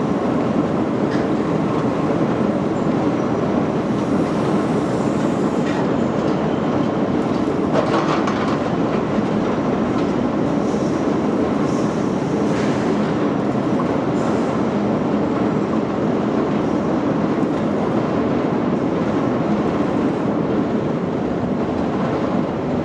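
Steady, loud mechanical noise of running machinery, an even rumble and rattle.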